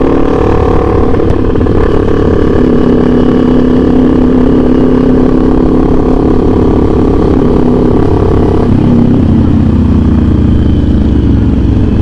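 CFMOTO 450SR S parallel-twin engine with an aftermarket AR exhaust, running steadily under way with wind rush on the microphone. About nine seconds in, the engine note drops to a lower pitch.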